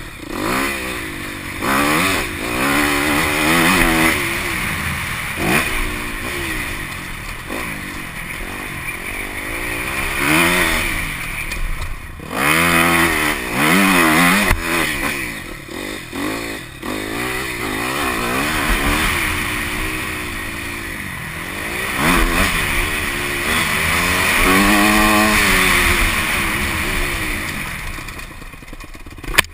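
Dirt bike engine being ridden hard, revving up and dropping back again and again as the rider works the throttle and gears, with a few sharp knocks along the way.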